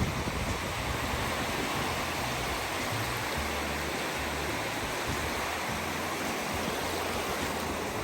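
Low sea waves washing in the shallows, a steady rushing.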